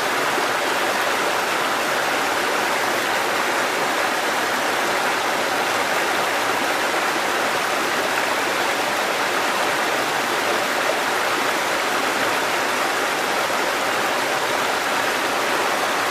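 Mountain stream cascading over rocks: a steady, even rush of water with no change.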